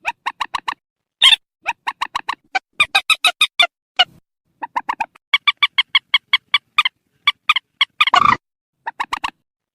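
Recorded swamphen calls played as a hunting lure: rapid runs of short, clucking notes, several a second, broken by brief pauses, with a harsh screech near the end.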